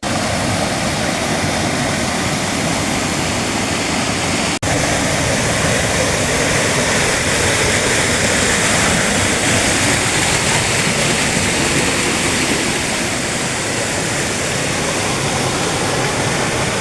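Rushing water of a rainforest creek running high after recent rain, a steady loud roar that breaks off for an instant about four and a half seconds in.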